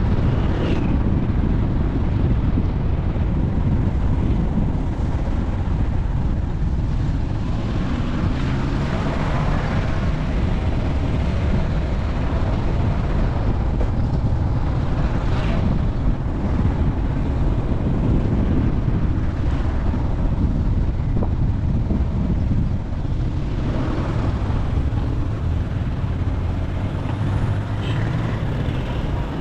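Steady rumble of a car on the road, with wind noise on the microphone and several brief rushing swooshes, as of passing vehicles.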